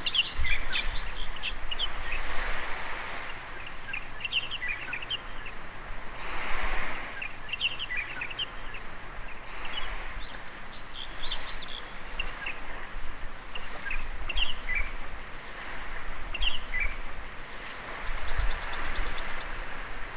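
Small birds chirping and singing repeatedly over waves washing onto a beach, the surf swelling every few seconds. Near the end one bird gives a quick run of about seven notes.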